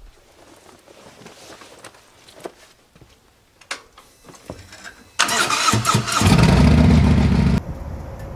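Harley-Davidson V-twin motorcycle engine being started: after a few seconds of small clicks and handling noises, the electric starter cranks about five seconds in and the engine catches and runs loud for about a second and a half before the sound drops off suddenly.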